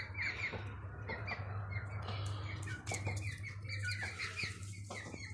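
Many small birds chirping in quick, short notes that overlap continuously, over a steady low hum.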